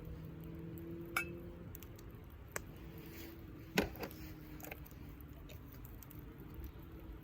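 A few separate clinks and knocks of cookware or utensils being handled, the loudest about four seconds in, over a faint steady low hum.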